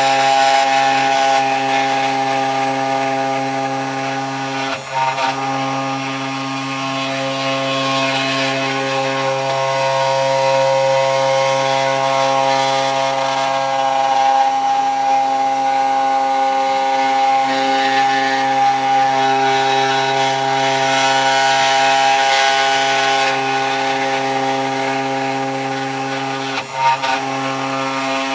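CNC 3018 Pro desktop router's small spindle motor running steadily with a whine while its bit cuts into wood, in footage sped up seven times. The sound dips briefly twice, about five seconds in and near the end.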